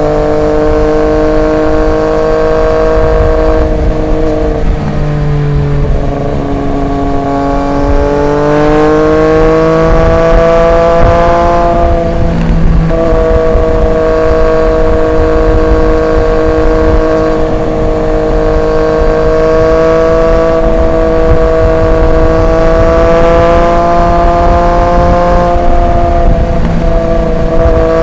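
Triumph Street Triple 765 RX's inline-three engine on the move through an SC Project S1 exhaust. The note dips a few seconds in, climbs steadily as the bike accelerates, breaks briefly near the middle, then holds nearly level at cruising speed with a slight rise.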